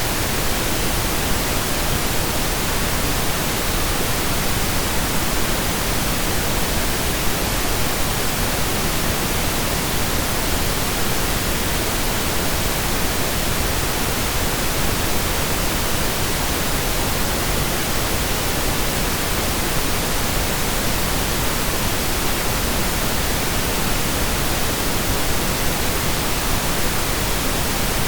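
Synthesized pink noise: a steady, even hiss across the whole range, with no changes, loops or fades.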